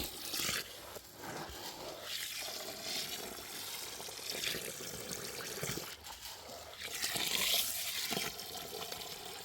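Water running and splashing, swelling and easing several times.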